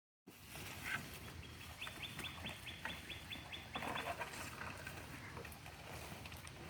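A bird calling: a quick run of short, evenly repeated high notes, about four a second, over a low steady rumble.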